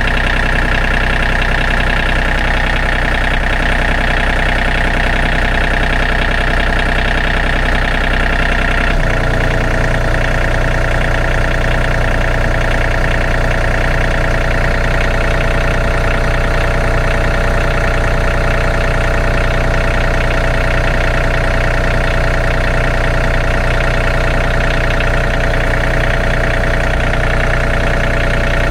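Farm tractor engine running steadily close by, its note shifting abruptly about nine seconds in as the engine speed changes.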